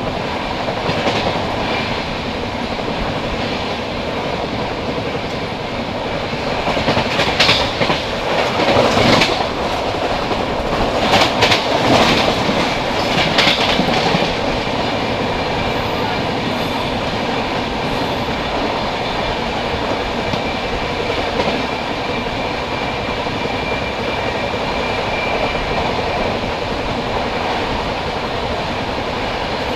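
Passenger express train running at speed, its wheels clattering over the rails in a steady rush of noise heard from an open coach door. From about seven to fourteen seconds in it grows louder and more clattering as an oncoming train passes on the next track.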